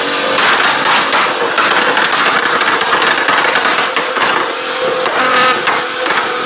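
Nissan GT-R R35's twin-turbo V6 exhaust popping and crackling, a rapid, dense run of sharp pops over a steady engine note.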